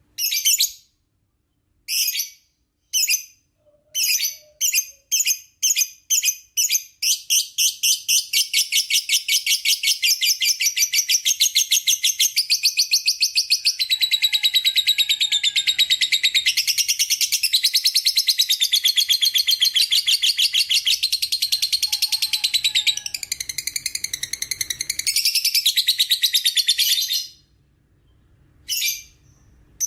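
Lovebird's long ngekek: a few separate shrill chirps quicken into a very fast, continuous chattering trill that runs for about twenty seconds. The trill stops abruptly, and one or two single chirps follow near the end.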